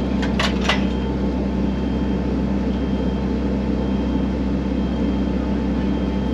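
Excavator engine running steadily, with a few short sharp clicks in the first second.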